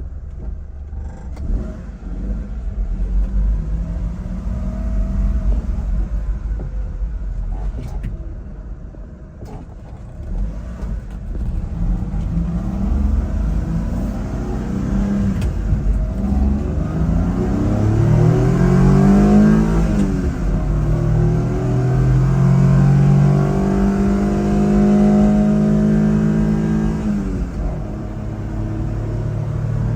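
1995 Mitsubishi Minicab kei truck's small three-cylinder engine under way, with a low rumble from the road. Its revs climb in the middle, fall away sharply at a gear change, hold steady for several seconds, then drop again near the end.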